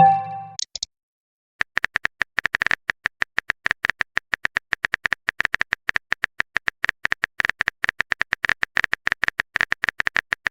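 A short electronic message chime, then, after a brief pause, a fast, uneven run of virtual-keyboard tap clicks, several a second, as a text message is typed on a phone.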